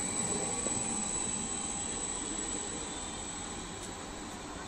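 ODEG double-deck electric regional train running away down the track, its rolling rumble fading steadily as it recedes.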